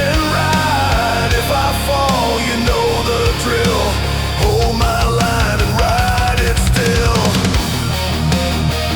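Hard rock music in an instrumental break: a lead melody slides and bends up and down in pitch over driving drums and bass.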